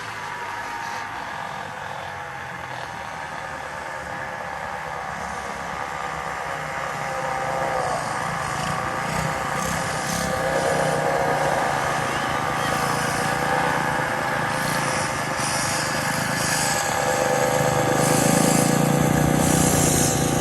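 Small motorbike engine running steadily, its pitch wavering slightly and getting louder toward the end as it comes closer.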